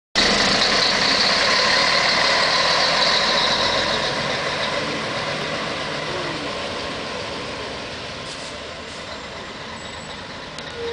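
Scania K113CL coach's six-cylinder diesel engine running as the bus drives off, loud at first and fading steadily as it moves away.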